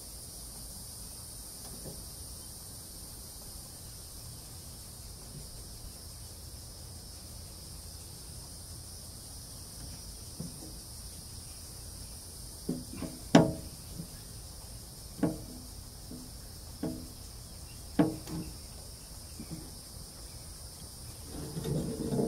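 Steady high insect chirring. About halfway in come five or six separate sharp knocks, and a busier clatter of hand-tool work sets in near the end.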